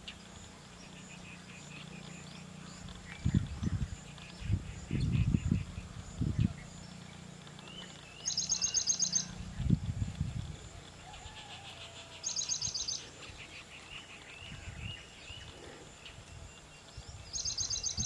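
Birds calling in a tree: runs of quick chirps and, three times, a short, rapid, high-pitched trill. Several low thumps come in between.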